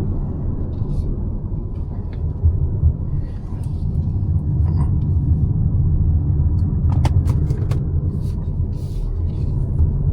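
Mazda CX-5 with a naturally aspirated 2.5-litre four-cylinder on the move: a steady low rumble of engine and road noise, with a few sharp clicks about seven seconds in.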